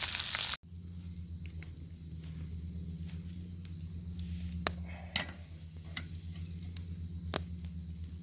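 Bacon sizzling loudly, cut off abruptly about half a second in. Then a quieter steady low hum and a steady high drone, with scattered sharp pops from the crackling fire, the loudest near the end.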